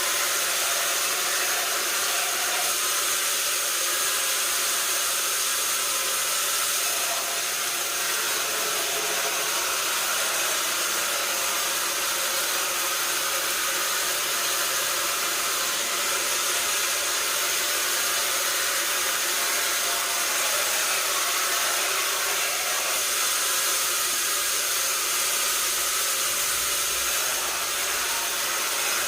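Sawmill machinery running steadily, an even hissing whir that holds at one level with no strokes or pauses.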